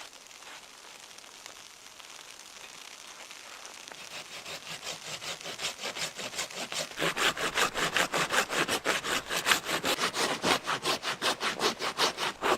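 Saw cutting through wood in fast, even back-and-forth strokes, about five a second. It starts faintly about four seconds in and gets louder about seven seconds in.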